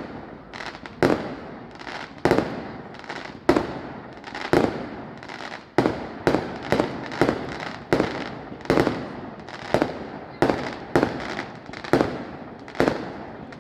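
Aerial fireworks exploding in a rapid string of sharp bangs, each followed by a short echoing tail. The bangs come about once a second at first and speed up to roughly two a second about halfway through.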